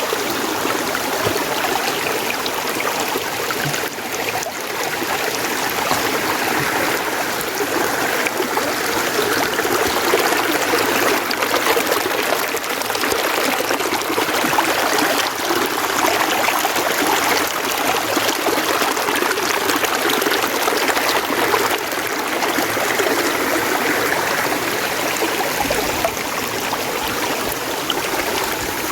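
A mountain stream flowing and splashing over rocks: a steady, even rush of running water.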